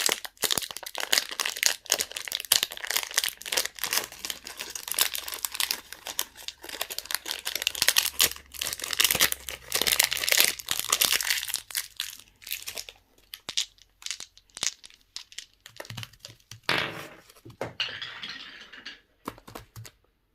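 Candy wrappers crinkling and tearing as they are unwrapped by hand, a dense run of crackles for the first dozen seconds, then sparser crinkles that stop just before the end.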